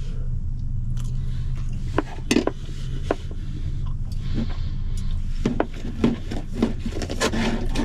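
Cutlery clinking and scraping on a plate or dish in scattered short clicks and knocks, over a steady low hum.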